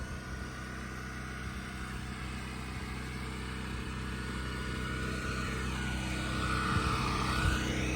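Steady engine drone, growing slowly louder towards the end.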